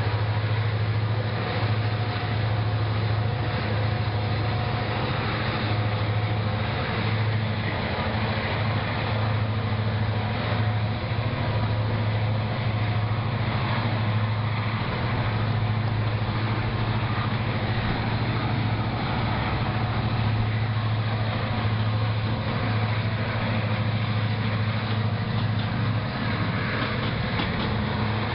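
Several diesel-electric freight locomotives passing close by: a steady deep engine drone over the noise of steel wheels running on the rails.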